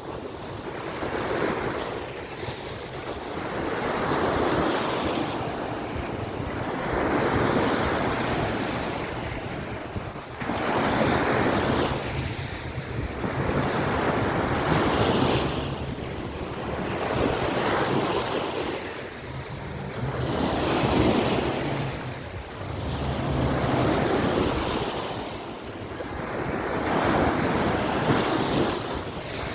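Waves of the Azov Sea breaking on a beach: a wash of surf that swells and eases every three seconds or so, with a low rumble of wind on the microphone.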